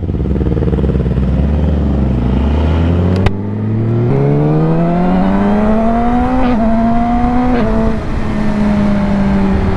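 Yamaha R6 inline-four sport bike engine accelerating hard, its note climbing through the gears with quick breaks at the upshifts, about three seconds in, again near six and a half seconds and near seven and a half, then settling to a steady cruise. Wind noise on the helmet microphone runs underneath.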